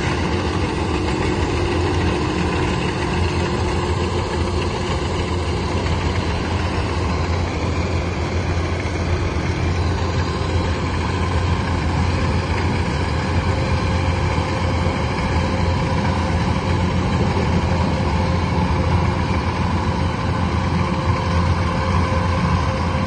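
A heavy machine's engine running steadily, with a deep drone and a few steady whining tones above it, unchanged throughout.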